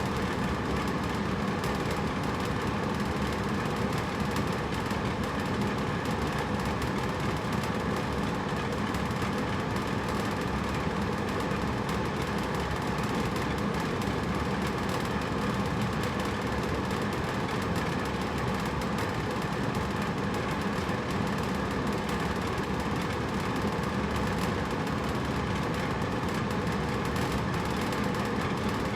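Hotel room air conditioner running steadily: a constant rush of air over a low hum.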